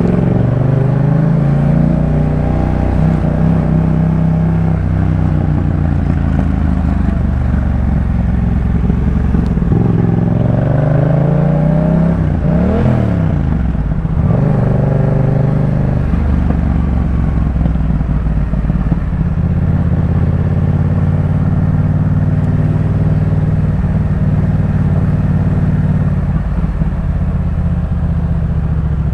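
Yamaha MT-07's 689 cc parallel-twin engine breathing through a Jeskap K4 full exhaust system while riding. The engine note rises and falls with throttle and gear changes a couple of seconds in and again around the middle, then settles into a steady cruise.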